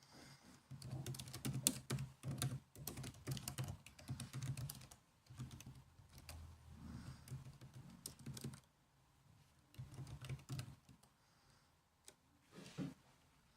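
Typing on a laptop keyboard: bursts of rapid key clicks broken by short pauses, with a lull of about two seconds near the end before a few last taps.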